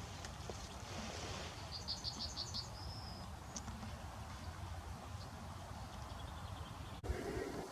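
A small bird singing a quick run of about eight high notes about two seconds in, ending in a short trill, over a steady low rumble.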